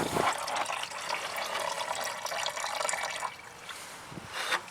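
Engine coolant pouring in a heavy stream out of the radiator drain into a catch pan, a steady splashing rush that eases off about three seconds in.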